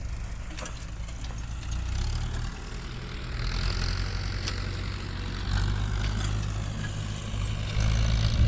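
Farm tractor engine running as it ploughs, a low steady drone that swells and eases in loudness several times.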